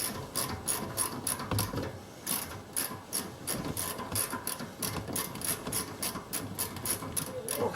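Hand ratchet wrench clicking rapidly as it backs out a loosened exhaust manifold heat shield bolt, about five clicks a second with a brief pause about two seconds in.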